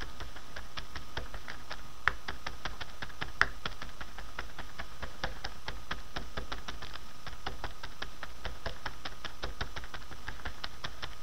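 Rapid, even tapping of a marker poking cracked powder blush through a plastic Ziploc bag to break the chunks into loose powder, several taps a second, with two louder clicks about two and three and a half seconds in.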